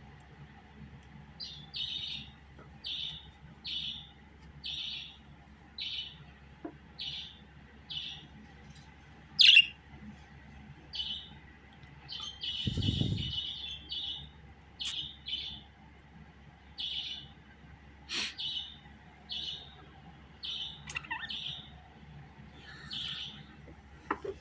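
Pet budgerigar chirping, short calls repeated about once a second. There is a sharp click about ten seconds in and a low thump a few seconds later.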